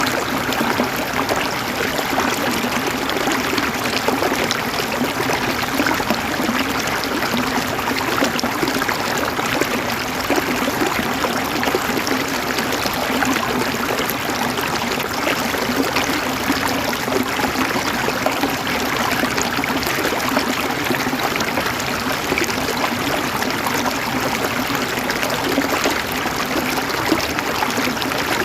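River water flowing and gurgling over stones, a steady rushing babble.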